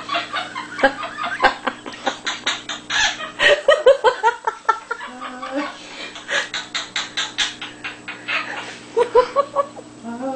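Quaker parrot (monk parakeet) imitating laughter: rapid strings of short, repeated 'ha-ha' notes, about seven or eight a second, in several bouts with brief pauses between them.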